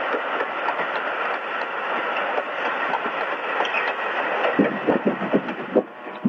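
A moving passenger train's steady running rumble and rattle, heard through a narrow, muffled 1950s film soundtrack. A run of quick, regular clacks from the wheels over rail joints joins in during the last second or two.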